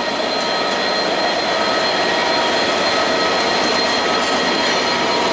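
A train moving along the platform: a steady rush of wheel-and-rail noise with a few faint high steady whining tones, growing slightly louder.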